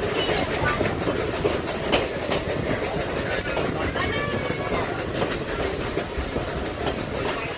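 Heritage steam train rolling along the track, heard from aboard a passenger car: a steady rumble of running gear and rail noise with irregular sharp clicks of wheels over rail joints.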